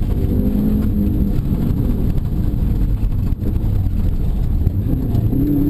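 Subaru Impreza WRX STI RA rally car's turbocharged flat-four engine under load, heard inside the cabin, its note rising and falling, over steady tyre noise from the dirt road. A brief dip in the sound about three seconds in.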